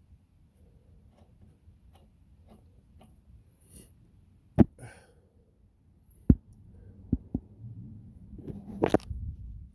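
Handling noise during hands-on car repair work, with a few sharp knocks. Two loud ones come about a second and a half apart, then two lighter ones in quick succession, then rustling and scraping with a last loud knock near the end.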